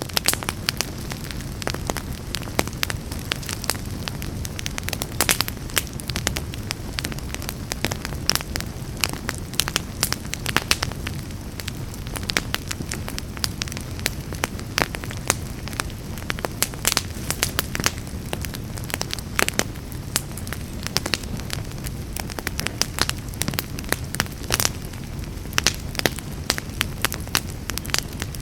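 Fire burning in a fireplace, crackling and popping with frequent irregular sharp snaps over a steady low rumble of the flames.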